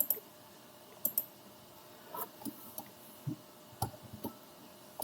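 Irregular, faint single clicks of a computer mouse and keyboard, about ten over five seconds, while drawing in CAD software.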